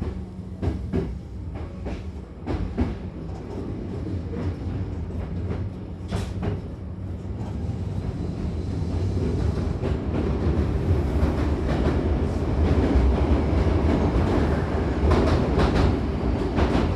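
Hankyu commuter train running, heard from inside the car: a steady low rumble with the wheels clacking over rail joints and points. The running noise grows louder over the second half.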